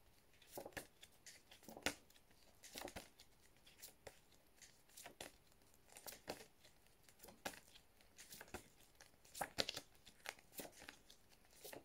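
Faint, short paper rustles and taps, spaced about a second apart, from cards being handled and flipped.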